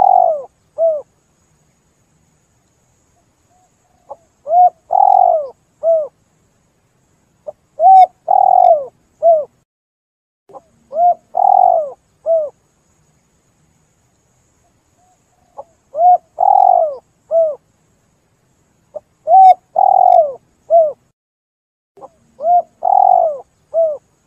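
Spotted dove (tekukur) cooing in repeated phrases, seven times. Each phrase is a short coo, a longer rolling coo and a short closing coo, and the phrases come every three to four seconds with silence between.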